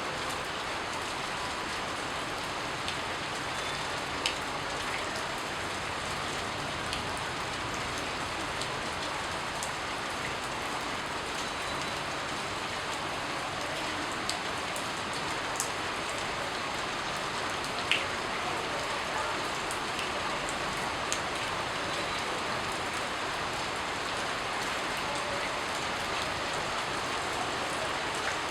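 Steady rain falling on a surface, an even hiss, with a few sharp, louder drops standing out now and then, the loudest about eighteen seconds in.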